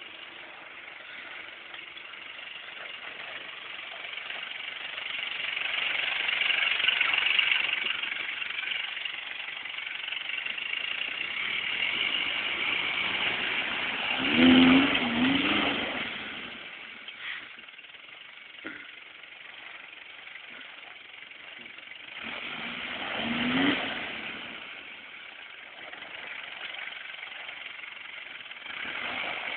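Toyota Land Cruiser FJ40 engine working hard on a steep off-road climb. It is revved up in surges: one loud burst about halfway through, another about three-quarters of the way in, and it rises again at the end, with steadier running in between.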